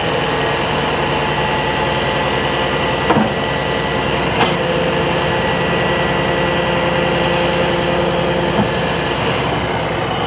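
Scania R480 truck's six-cylinder diesel engine running steadily, with brief clicks about three seconds in, about four and a half seconds in, and near the end.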